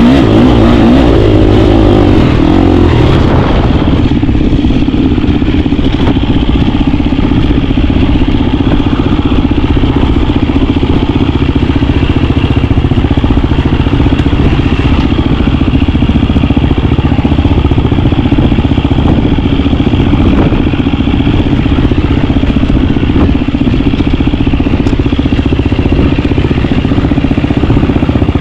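KTM 350 dirt bike's single-cylinder four-stroke engine running. Its revs drop about three seconds in, then it runs at a steady, lower speed with some clatter.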